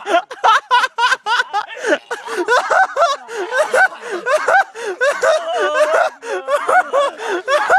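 Several people laughing without a break, snickering and cackling in quick pulses of breath, their voices overlapping.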